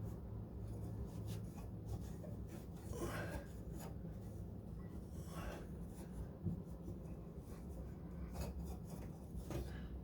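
A cloth rubbing over the car's hood to wipe off water spots, a few faint swishing strokes with pauses between them, over a steady low hum.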